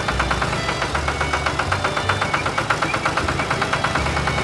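Heavy machine engine running steadily, with a fast, even pulse over a low rumble.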